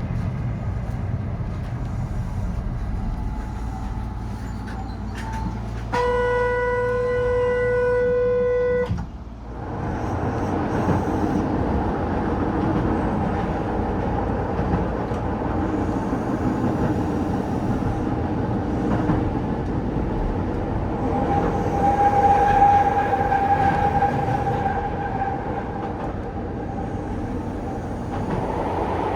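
Keihan Keishin Line electric train running, with rail noise throughout. About six seconds in, its horn sounds one steady note for about three seconds and then cuts off. Later a faint steady whine rises over the running noise for a few seconds.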